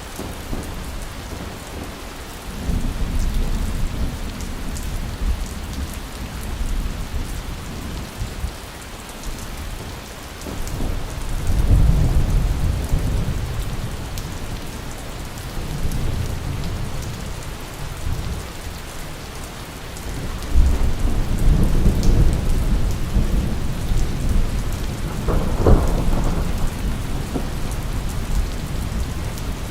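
Steady rain with repeated rolls of low thunder rumbling through it, the loudest swells coming about a third of the way in and again in the later part.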